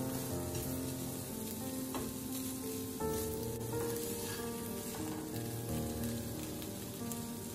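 Chicken breast strips sizzling in oil in a stone-coated non-stick frying pan, stirred and turned with a plastic slotted spatula. Background music with a melody plays under the sizzle.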